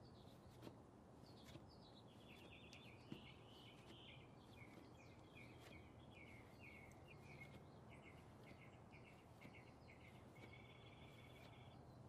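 Faint songbird singing a long, rapid series of repeated chirps and trills, over a steady background hiss, with a couple of soft knocks.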